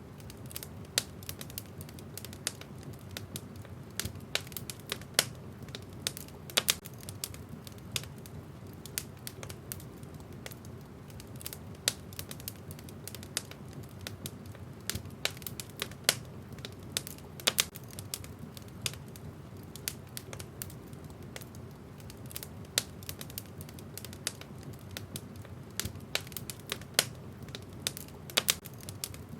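Wood fire burning in a fireplace, crackling: irregular sharp pops and snaps over a low steady rush of flame.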